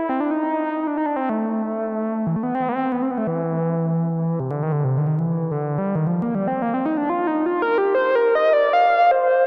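Arturia Memory V, a Memorymoog-style polyphonic synthesizer, playing a keyboard phrase with chords over a bass line that steps down and then climbs note by note through the second half.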